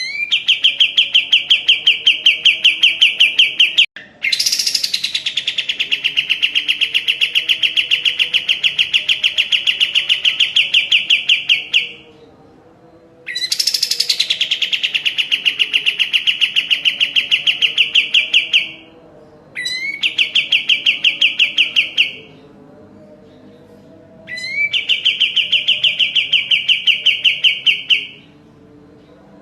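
Kapas tembak songbird singing long, rapid machine-gun trills of evenly repeated high notes, five bursts lasting from about two to eight seconds each with short pauses between. Two of the bursts open with a quick high downward sweep.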